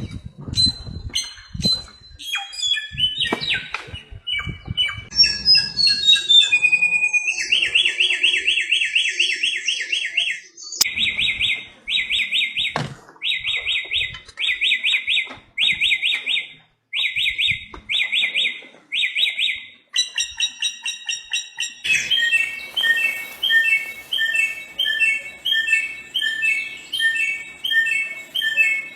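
Bare-throated whistler (samyong) singing a long, varied song: assorted whistled notes first, then a series of repeated rapid phrases at about one a second, switching to a different repeated phrase near the end.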